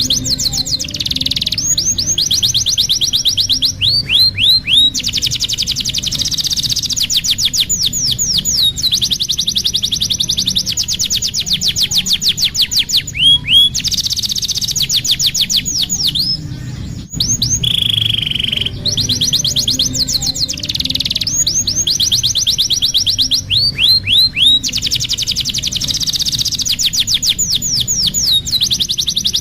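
Domestic canary singing a long song of fast high trills and runs of falling whistled notes. The same sequence of phrases repeats after a brief break about halfway through, a looped training song for young canaries.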